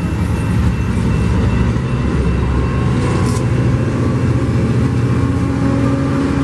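Diesel locomotive engine running steadily as a train passes, a continuous low drone.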